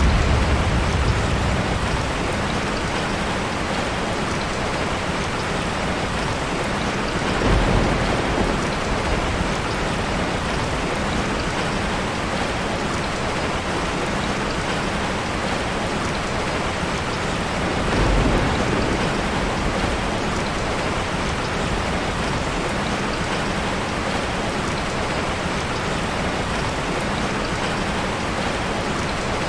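Steady heavy rain pattering down, with low rolls of thunder: the tail of one at the start, and shorter rumbles about seven and eighteen seconds in.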